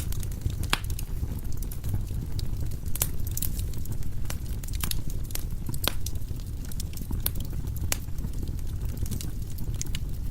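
Firewood burning in a fireplace: a steady low rumble of the flames with irregular sharp crackles and pops from the logs.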